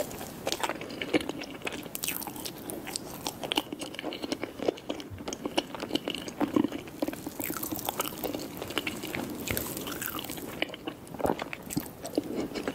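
Close-miked chewing and wet mouth sounds of someone eating a soft cake with cream and a glazed coating from a fork, with many small, sharp clicks and smacks.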